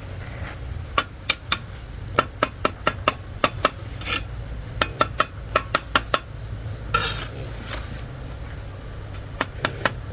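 Runs of sharp metallic taps, several a second, with two brief scraping sounds about four and seven seconds in, over a steady low rumble.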